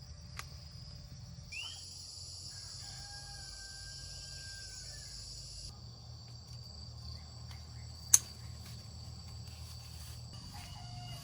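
Insects chirring steadily, louder for a few seconds near the start, with a faint rooster crow. A single sharp click about eight seconds in.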